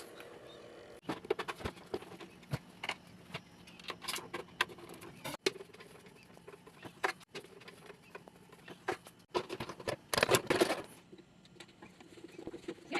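Irregular clicks, taps and light knocks of an air fryer's plastic and metal parts being handled during a repair, over a faint steady hum, with the loudest rattling bunched about ten seconds in.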